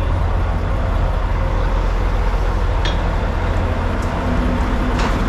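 Heavy diesel engine running steadily with a low rumble, with a couple of faint sharp ticks about three and five seconds in.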